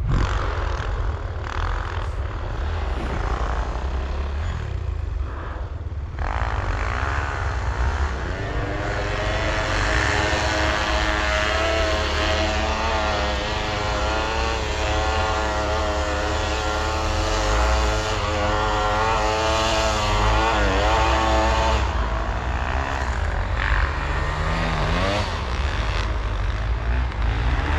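Dirt bike engine running, its pitch wavering up and down for the first several seconds, then holding a steady drone for about a dozen seconds before varying again near the end, over a heavy low rumble.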